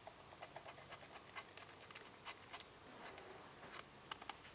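Faint, irregular snips and scratches of shears cutting a fiber gasket sheet.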